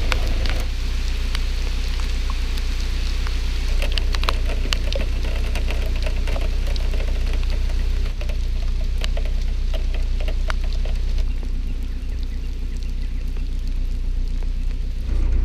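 Rain falling, with many scattered drops ticking sharply, over a steady low hum.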